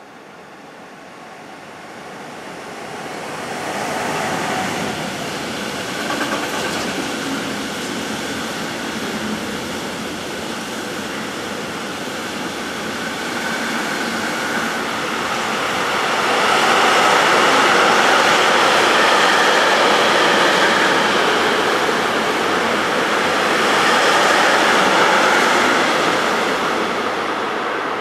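DB Class 185 (Bombardier TRAXX) electric freight locomotive and a long string of container wagons rolling past, a steady rushing of wheels on rail. It builds over the first few seconds as the locomotive nears, is loudest in the second half as the wagons pass, and eases slightly near the end as the last wagon goes by.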